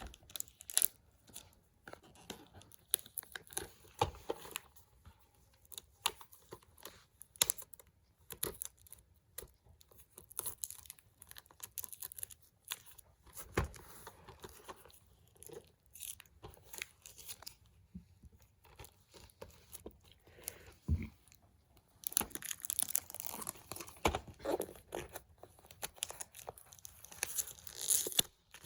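Plastic shrink-wrap being torn and crinkled off a DVD case, with scattered sharp clicks and taps of the plastic case; the crinkling grows denser and more continuous near the end.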